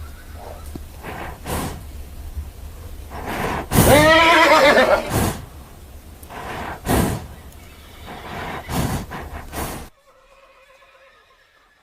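Horse neighing: one loud, wavering whinny about four seconds in, with a few shorter rough sounds around it. The sound drops much quieter about ten seconds in.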